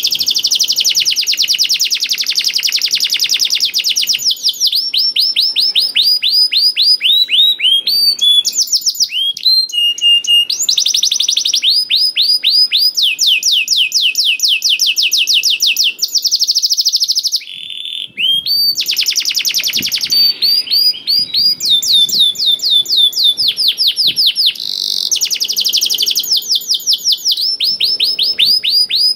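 Domestic canary singing a long, loud song of fast rolling trills, each trill a rapid run of repeated falling notes, switching from one trill to another every few seconds with a brief pause around the middle.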